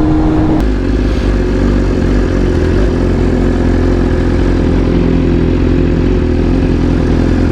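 BMW S1000RR inline-four motorcycle engine running at a steady engine speed while riding, a constant hum that changes slightly about half a second in and then holds its pitch.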